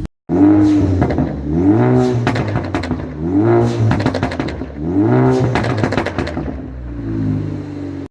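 Stage 3 tuned Ford Focus ST engine and exhaust revved four times in quick blips, with sharp pops and crackles from the exhaust as the revs drop, then settling to idle near the end.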